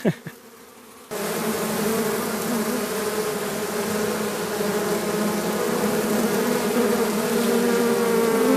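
Honeybees buzzing around an opened colony in a roof: a loud, steady hum that starts abruptly about a second in.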